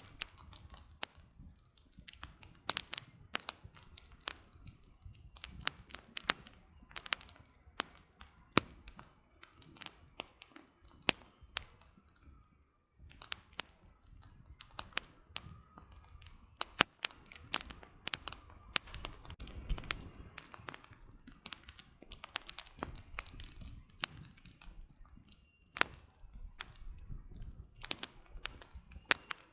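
Campfire firewood crackling: irregular sharp snaps and pops over a low rumble of the flames, with a brief lull about halfway through.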